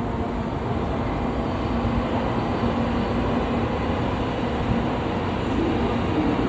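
N700A Shinkansen train arriving at a station: a steady rumble of the train running, with a faint hum underneath.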